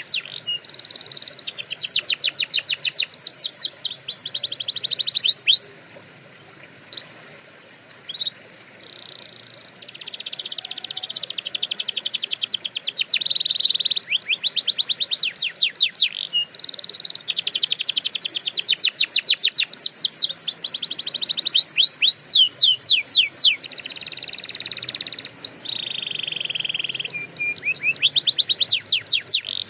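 Domestic canary singing: long trilled phrases, each a rapid run of repeated notes, changing from one tour to the next. About five seconds in the song stops for several seconds, broken only by two single chirps, then resumes.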